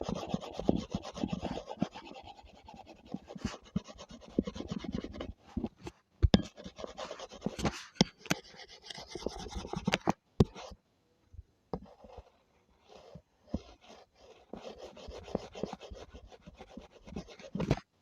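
A drawing tool rubbing and scratching on paper in quick back-and-forth strokes, dropping to a few scattered strokes for a few seconds past the middle before picking up again.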